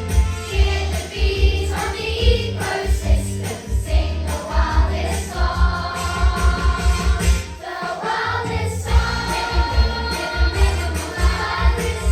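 Children's choir singing a song over accompaniment with a steady, pulsing beat.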